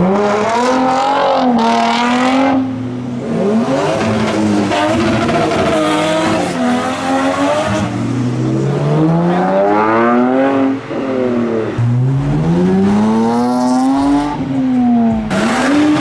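Modified cars accelerating away one after another, engines revving hard and climbing in pitch, dropping back at each gear change before climbing again.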